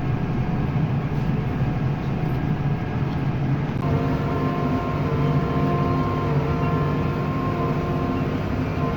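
Vehicle engine running steadily under way, heard from inside the cab with road and driveline noise. About four seconds in, a set of steady higher tones joins the hum.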